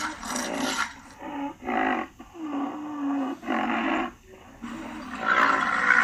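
Rhinoceros grunting: a series of short grunts about half a second each, then a louder, longer run of calls from about five seconds in.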